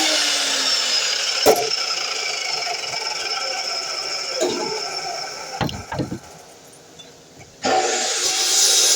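DeWalt miter saw winding down, its whine fading over several seconds, with a few knocks of wood being handled; near the end the saw's noise comes back abruptly.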